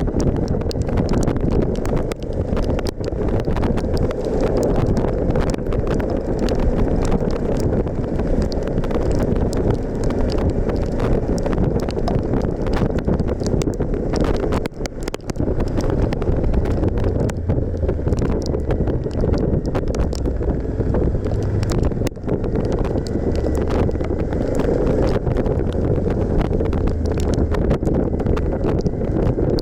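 Heavy wind buffeting on the microphone of a moving Suzuki V-Strom 1050XT motorcycle, with the bike's V-twin engine and tyres running beneath it.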